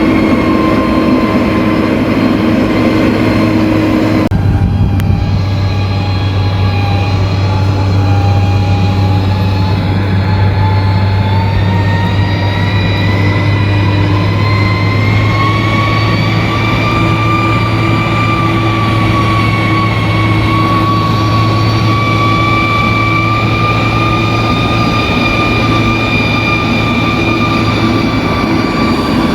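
Bulldozer's diesel engine running steadily under load with a low drone and a thin whine that slowly rises in pitch. The sound changes abruptly about four seconds in.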